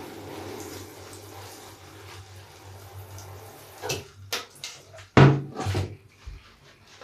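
Large wet bath sponge full of soap being squeezed and kneaded, giving a steady watery squishing. About four seconds in come a few sharper squelches and knocks, the loudest just after five seconds.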